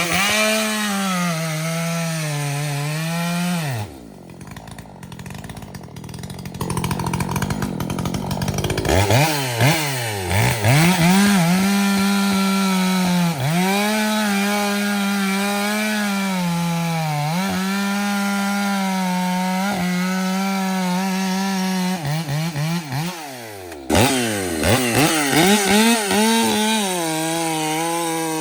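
Ported Echo chainsaw running at full throttle while cutting wood, its engine note sagging and recovering again and again as the chain loads up in the cut. About four seconds in the engine drops back for a few seconds, then revs up again to carry on cutting.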